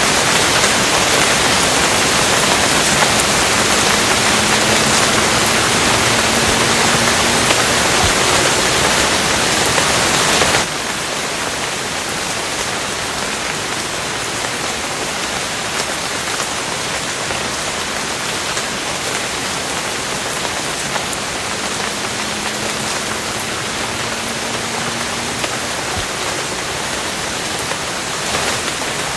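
Steady heavy rain, a dense even hiss of drops. About a third of the way through it drops suddenly to a softer, steady level.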